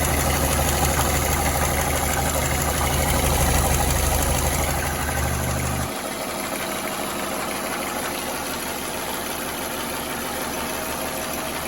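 Mercedes-Benz W212's M271 turbocharged four-cylinder petrol engine idling warm and running very noisily with a knocking clatter, 'like a diesel'. The owner can't place the noise and suspects the oil pump isn't delivering oil, though the timing chain and sprockets have already been replaced. The deep low hum drops away suddenly about halfway through.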